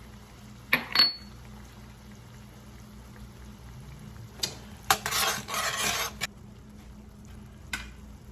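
A metal utensil clinks twice against a pan, one clink ringing briefly. It is followed by about a second and a half of stirring and scraping in the pan, with a few lighter knocks.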